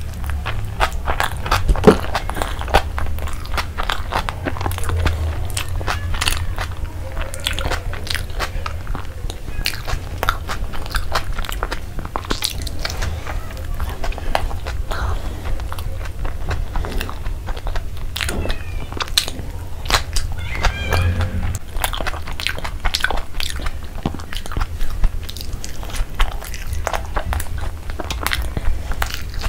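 Close-miked eating: a person biting and chewing pieces of a breaded fried chicken burger patty and bun, with many irregular crunchy clicks and wet mouth sounds, over a steady low hum.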